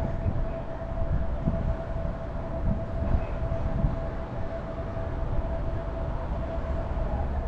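Car engine idling with a low, uneven rumble, under a steady high-pitched hum that holds one note throughout.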